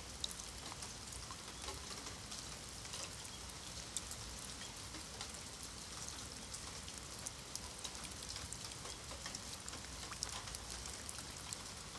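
Rain falling on wet stone paving slabs: a steady hiss with many small, sharp drop ticks scattered through it.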